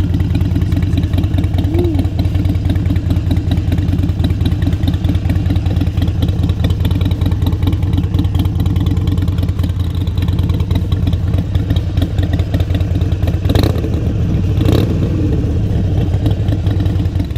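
A 2017 Harley-Davidson Iron 883 air-cooled V-twin with a Cobra full exhaust, running steadily at a low, even idle. About three-quarters of the way through there are a couple of brief sharp noises.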